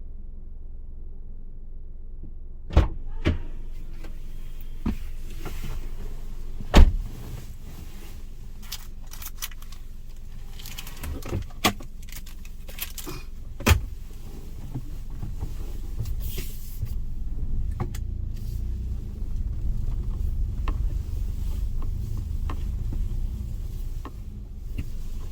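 Car with its engine running, a steady low rumble that grows louder in the second half, with a series of sharp knocks and clicks, the loudest about seven seconds in.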